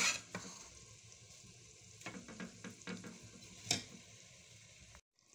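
Boiled dried beans being spooned into hot tomato and spice paste in a cooking pot, sizzling, with a spoon knocking and scraping against the pot several times. The sound cuts off suddenly near the end.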